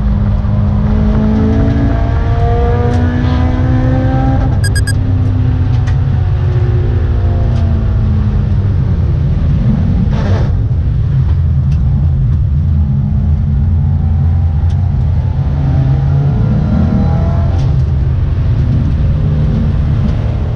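Subaru Impreza GDA's flat-four engine heard from inside the cabin under hard driving on a racing lap, its pitch climbing under acceleration and dropping at gear changes and braking. There is a short hiss about halfway through.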